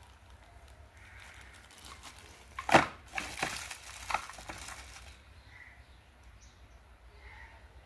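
Packaging being handled: a sharp knock, then a couple of seconds of rustling and crackling with several clicks.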